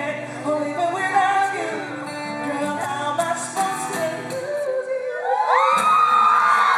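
Male vocals over acoustic guitar, closing out the acoustic version of the song. About five seconds in, the audience breaks into high-pitched screaming and cheering, louder than the music.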